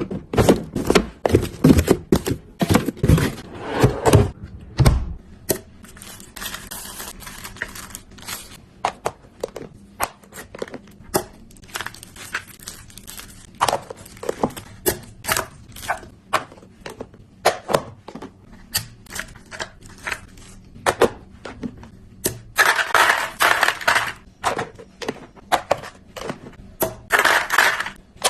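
Food containers and packages being handled and set down: many clacks and knocks of plastic and glass, heavier thuds in the first few seconds, and two stretches of packaging rustling near the end.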